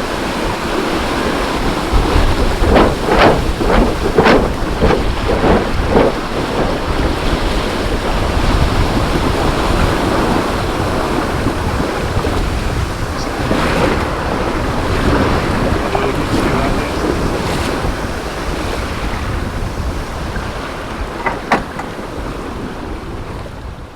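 British Seagull two-stroke outboard running on a small boat, mixed with heavy wind noise on the microphone and the wash of water; a quick run of sharp pulses comes about two to six seconds in, and the sound fades near the end.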